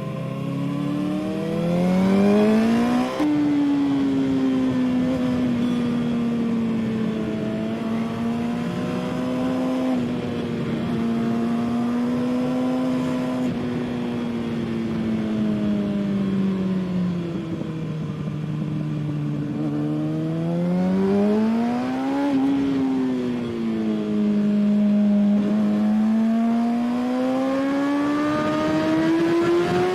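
Sport motorcycle engine heard onboard on a track warm-up lap: the revs climb hard for about three seconds to an upshift, then run at moderate, fairly steady revs that ease off and pick up again, with a short blip partway through and a steady climb near the end.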